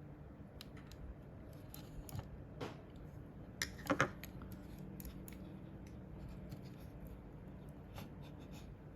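Small clicks, taps and scrapes from hands working on a computer mouse and its parts, with a quick cluster of sharper clicks about four seconds in.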